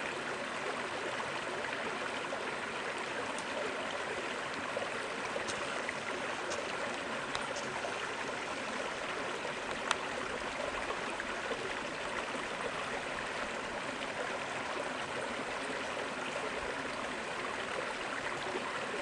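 Creek water running steadily, with one sharp click about halfway through.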